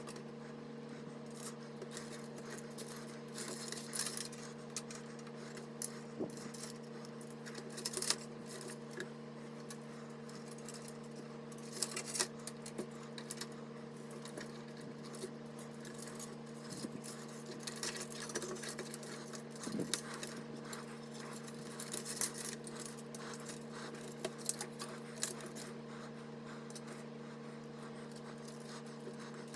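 Scattered small clicks, taps and light rattles of computer hardware being handled during a PC build, over a steady low hum.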